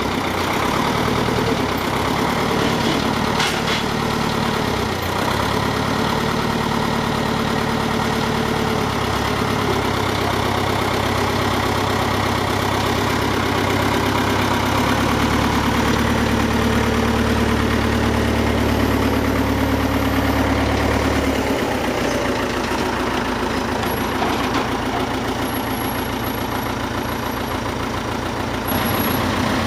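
Heavy vehicle engine running steadily at idle. A strong deep hum in it drops away about two-thirds of the way through, leaving a lighter idle.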